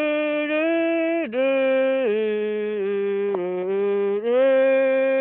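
A person humming a wordless tune in long held notes, which step down twice and then rise back to a long final note.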